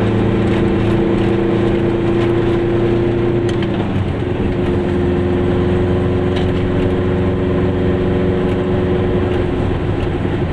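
Goggomobil's small two-stroke twin engine running under way. The engine note dips slightly about four seconds in, then holds steady.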